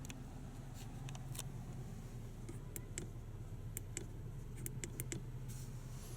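Scattered light clicks over a steady low hum.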